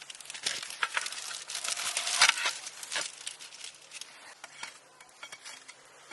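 A rapid run of small clicks and scrapes, densest and loudest about two seconds in, then thinning to scattered clicks.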